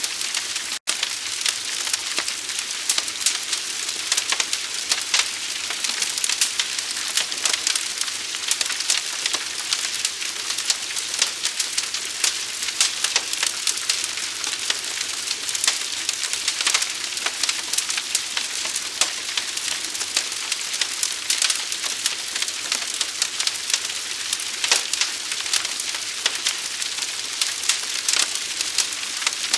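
Forest fire burning: a steady hiss thick with fast crackles and pops. The sound cuts out for an instant just under a second in.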